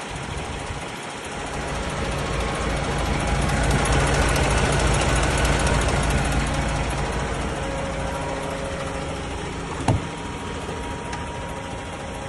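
DAF XF106 480 truck's diesel engine running, a steady low hum that swells louder a few seconds in and eases back, with a sharp click near the end.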